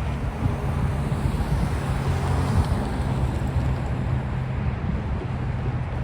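Freight train rolling steadily past, a continuous low rumble of wheels on rail.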